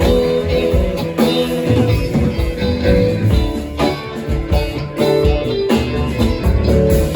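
Band music led by guitar, playing an instrumental passage with no singing, over a steady low bass line.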